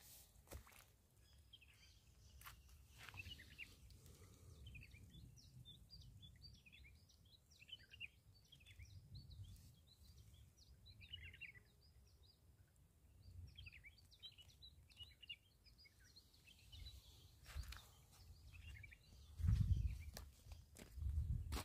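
Small birds chirping and twittering, many short calls one after another, with a few low thumps near the end.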